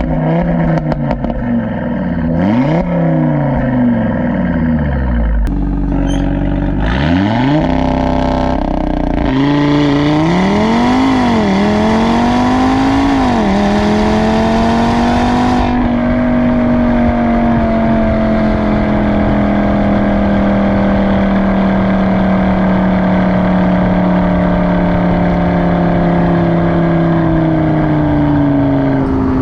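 Audi RS3 8V's turbocharged five-cylinder engine and exhaust while driving. In the first several seconds the revs rise and drop again and again, and from about ten seconds in there is a loud rushing noise over the engine note. From about sixteen seconds the car cruises with a steady note that slowly falls.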